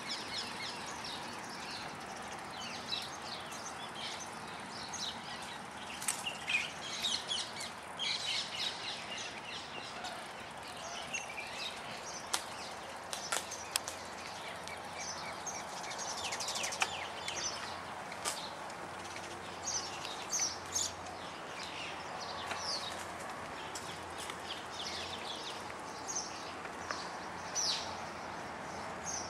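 Many small birds chirping and calling, short high chirps coming thick and fast throughout, over a steady background hiss.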